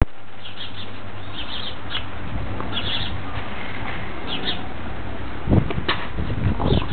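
Small birds chirping in short bursts over a steady hiss. From about five and a half seconds in come a few low thumps.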